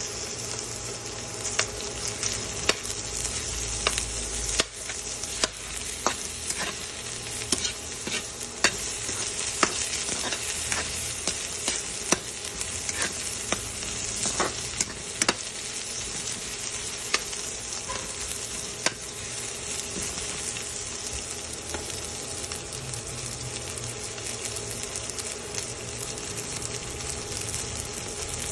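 Garlic and onion sizzling in hot oil in a metal pan while being stirred, with a steady hiss and frequent sharp clicks and scrapes of the utensil against the pan. The clicks thin out after about the first two thirds.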